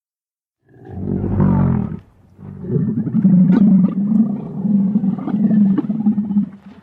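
A large animal roaring: one call about a second long, then a longer run of deep pulsing calls that stops just before the end.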